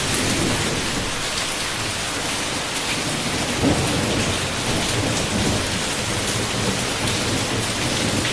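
Steady heavy rain with low rolling thunder, the rumble swelling near the middle.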